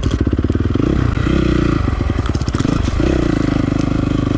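2008 Honda CRF450R's single-cylinder four-stroke engine running just after being restarted from a stall, the revs rising and falling several times as the throttle is worked.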